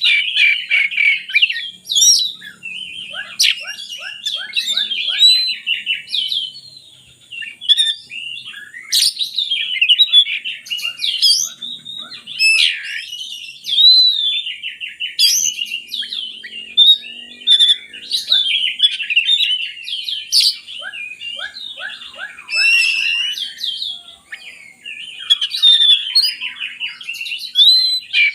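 Oriental magpie-robin (kacer) singing almost without a break: a fast, varied song of clear whistles, quick trills and runs of rapidly repeated notes, with short pauses between phrases.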